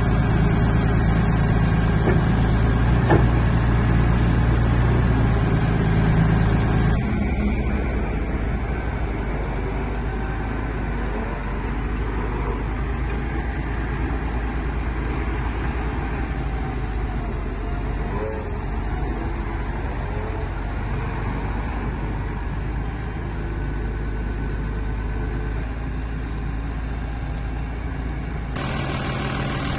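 Deutz BF6M1012E six-cylinder diesel engine of an O&K MH 5.5 wheeled excavator running with a steady drone. About seven seconds in, the sound becomes quieter and rougher, and the steady drone returns near the end.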